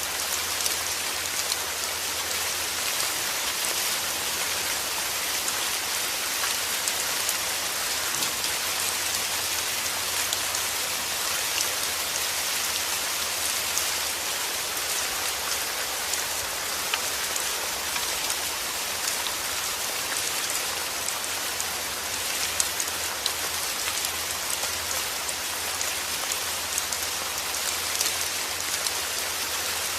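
Heavy rain falling steadily: a dense, even hiss of drops with many small sharp drop ticks scattered through it.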